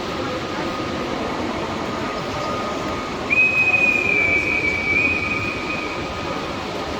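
Train moving at a station platform with a steady rumble; about three seconds in, a high squeal from the wheels or brakes sets in, drifts slightly lower and fades out after about three seconds.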